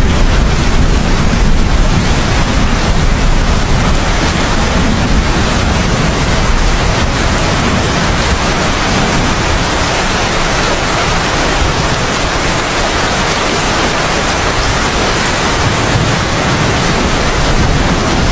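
Steady heavy rain with a low thunder rumble underneath, which eases off in the middle and builds again near the end.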